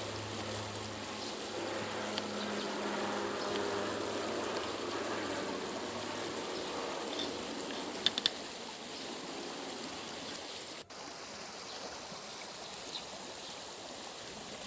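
Steady rush of flowing water, like a stream, with a low hum in the first half and a few sharp clicks about eight seconds in.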